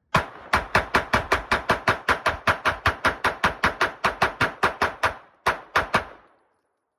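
Glock 26 9mm pistol fired semi-automatically in a rapid magazine dump, about four to five shots a second for some five seconds. After a brief stop, three final shots follow.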